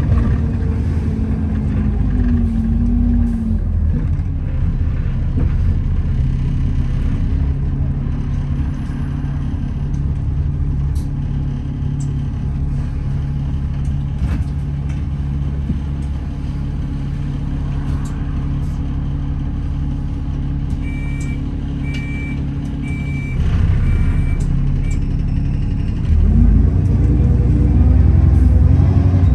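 Alexander Dennis Enviro400 double-decker bus heard from inside: the engine note drops as the bus slows, then runs steadily at idle for most of the time. Five short high beeps sound a little past the middle, and near the end the engine note climbs and gets louder as the bus pulls away.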